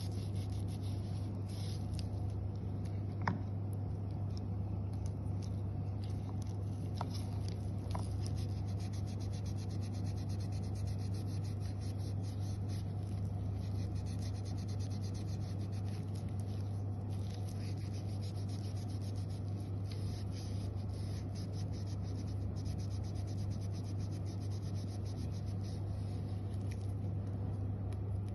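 Tissue paper rubbing rust off a steel engine bearing wetted with rust remover: a quick, steady scratchy rubbing with a few light metallic ticks. A steady low hum runs underneath.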